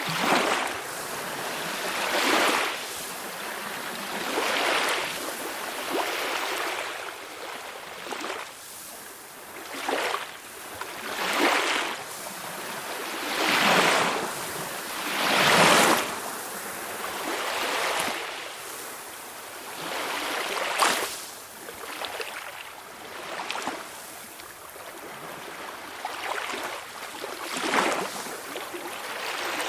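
Small sea waves washing onto a shore in a steady run, each swell of surf rising and falling every couple of seconds, the biggest one about halfway through.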